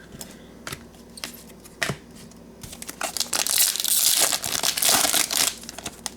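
Trading card pack wrapper being torn open and crinkled. A few light clicks come first, then about three seconds of dense crinkling.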